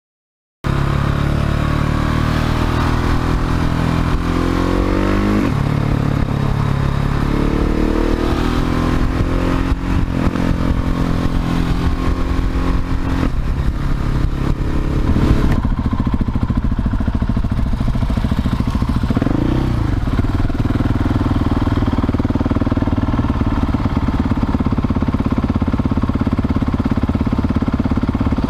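Husqvarna 701 Supermoto's single-cylinder engine through a Leo Vince slip-on exhaust, pulling up through the gears: its note rises and drops back at each shift, then it settles into a steady cruise.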